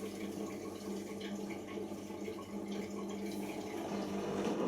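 Siemens iQ washing machine draining after the main wash: a steady pump hum with the sound of water running out.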